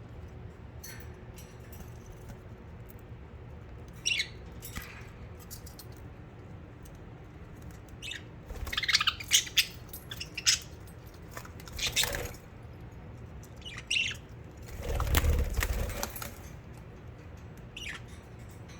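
Pet budgerigars chirping in short, scattered calls, busiest about two-thirds of the way through, with a burst of wing flapping about a second long near the end.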